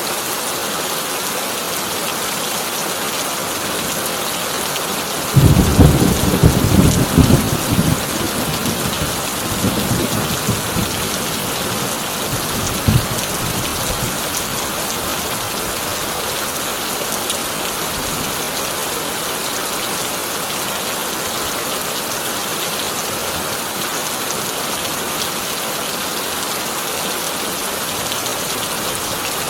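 Heavy rain drumming steadily on a corrugated tin roof. About five seconds in, a loud thunderclap breaks out and rumbles for a few seconds before fading, with one more short crack a little later.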